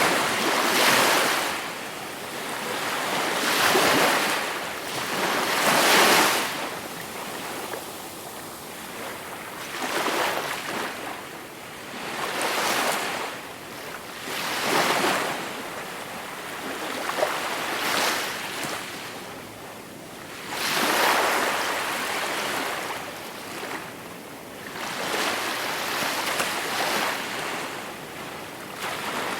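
Gentle sea waves breaking in repeated surges, each one swelling and fading, about every two to four seconds.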